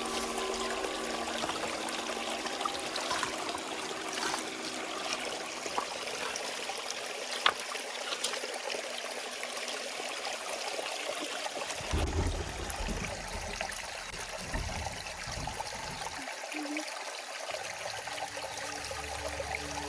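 Water running and trickling steadily, like a small stream, with a sharp click about seven seconds in and some low thumps past the middle.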